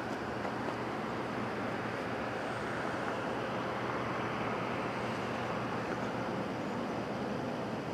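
Steady, even rumble of a distant approaching CN diesel freight train, with a faint low engine drone.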